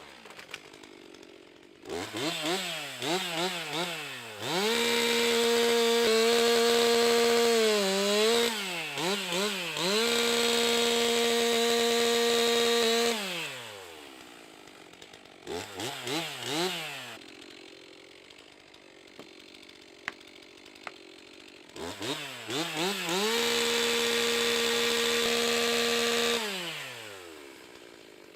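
Stihl MS 362 C-M two-stroke chainsaw blipped a few times, then held at full throttle for about eight seconds, its pitch sagging briefly midway, before dropping back to idle. After more throttle blips it runs at full throttle again for about three seconds near the end.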